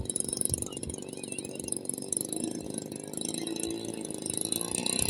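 Engine and propeller of a radio-controlled replica D.H.2 model airplane in flight, a steady buzzing drone whose pitch wavers as it flies.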